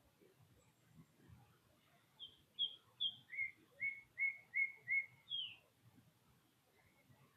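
A songbird singing one phrase of clear whistled notes: three short higher notes, then five lower repeated notes, ending in a single falling slurred note.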